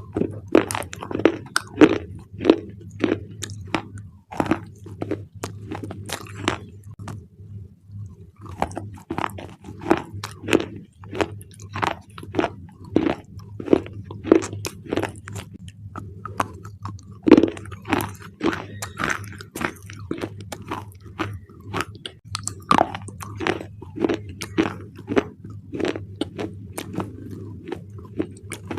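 Close-up biting and chewing of thick black slate bars: a run of sharp, crackly crunches, about one to two a second, with a brief pause about a quarter of the way in.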